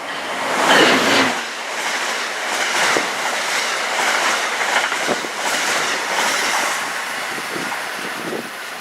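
Passenger train passing through the station at speed: a loud rush of noise about a second in, then a steady rumble with wheels clicking over the rail joints.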